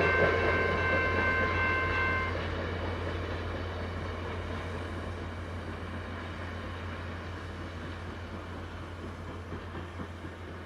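Horn of a VIA Rail passenger train led by two EMD F40PH-2 diesel locomotives, a held chord that cuts off about two seconds in. After that the train's running sound fades steadily as it moves away.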